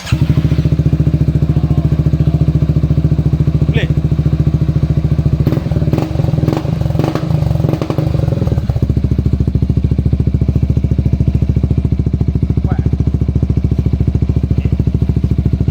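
Motorcycle engine idling through an aftermarket Proformance exhaust, a steady pulsing note at a constant pitch. About nine seconds in, the upper part of the note drops away and the sound thins.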